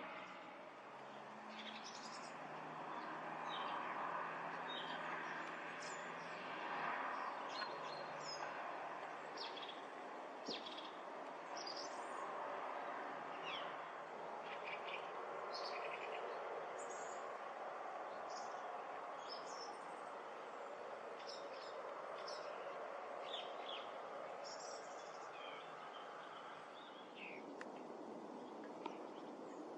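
Small birds chirping, with many short separate calls scattered throughout, over a steady rushing background noise.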